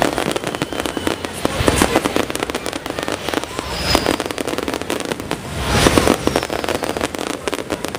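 Fireworks display: a dense run of rapid crackling and popping from bursting shells, with heavier booms about two, four and six seconds in.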